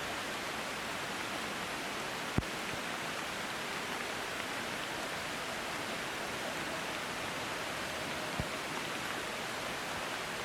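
Steady, even rush of water noise from rain or a mountain stream, with two soft low thumps, one about two seconds in and one near the end.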